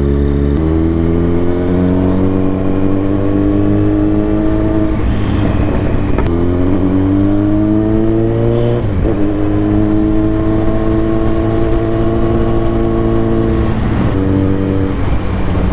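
Kawasaki Z900's inline-four engine pulling under acceleration through the gears: its pitch climbs steadily in each gear and drops at each upshift, about half a second, six, nine and fourteen seconds in.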